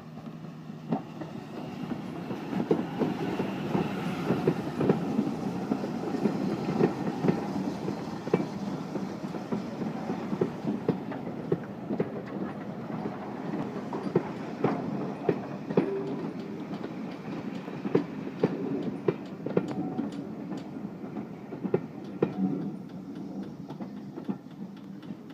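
Steam-hauled train, GWR 5600 class tank engine 6695 with its coaches, running past, wheels clicking over the rail joints. The sound builds over the first couple of seconds and carries on steadily as the train goes by.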